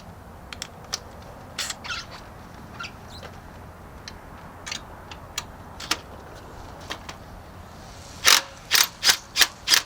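Scattered light clicks and clinks of tools being handled, then five short hissing bursts in quick succession near the end.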